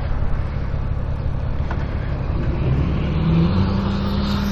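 2015 Honda Gold Wing F6B's flat-six engine running under way, with steady road and wind noise. About halfway through, a tone rises in pitch, then holds steady.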